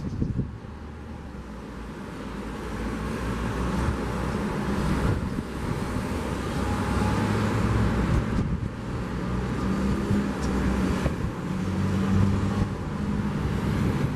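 Sea surf washing on the beach with a car passing on the coastal road, its engine hum growing stronger in the second half. Wind buffets the microphone.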